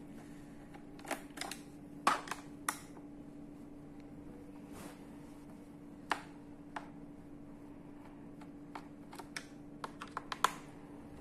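Irregular clicks and taps of a screwdriver and small screws on a laptop's plastic case as the screws are taken out, loudest about two seconds in and again near the end.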